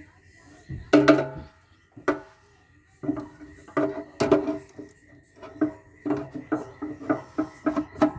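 Metal being struck and knocked while a stubborn part is worked loose inside a solar inverter's metal case: sharp clanks with a short ring, one heavy one about a second in, then a quicker irregular run of two or three a second from about three seconds in.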